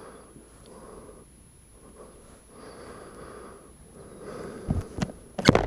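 Quiet breathing close to the microphone, swelling and fading slowly, with a few soft knocks near the end.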